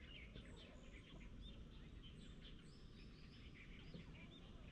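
Faint chirps and short calls of several birds, scattered throughout, over a steady low background rumble.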